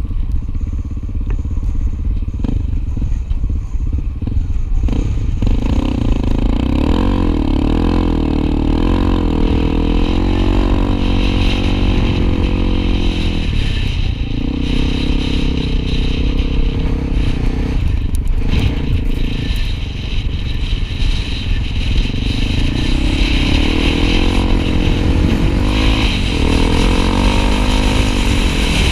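Honda XR250 Tornado single-cylinder trail motorcycle being ridden, its engine note rising and falling with the throttle and easing off briefly a couple of times, over a heavy low rumble.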